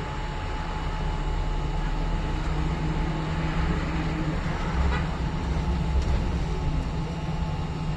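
Inside a moving city bus: the engine hums steadily under a low road rumble.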